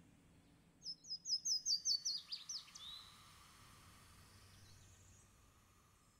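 A songbird singing one phrase of about ten quick, high repeated notes ending in a short flourish, starting about a second in. A fainter call follows, over a faint background that fades out near the end.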